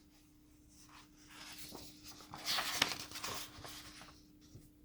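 Paper rustling with a few crisp ticks for about two seconds: a page of a small hardback picture book being turned.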